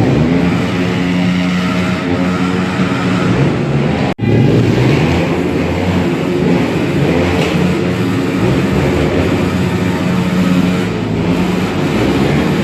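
Motor vehicle engines running steadily, broken off by an abrupt cut about four seconds in, after which the engine sound carries on.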